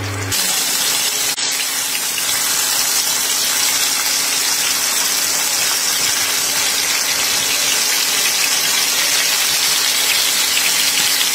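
Pork-and-quail-egg meatballs sizzling steadily in hot oil in a frying pan as they brown and cook through.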